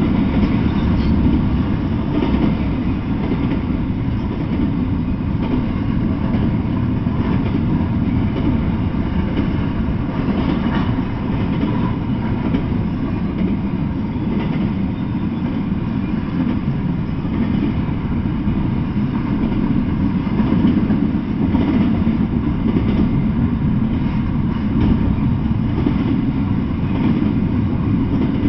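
Freight train of double-stack intermodal well cars rolling past: a steady rumble of steel wheels on the rails.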